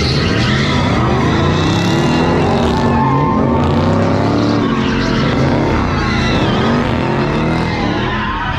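Several high-powered V8 engines revving hard again and again, their pitches rising and falling and overlapping.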